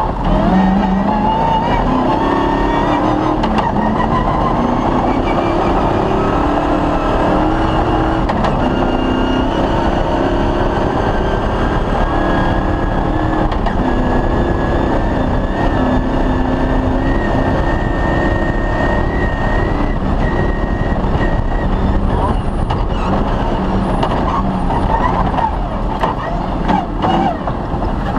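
Off-road rally car's engine running hard under load, its pitch climbing slowly and steadily over about twenty seconds and then settling.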